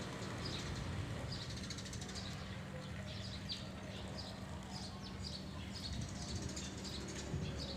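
Small birds chirping: short high chirps about twice a second, over a low steady hum.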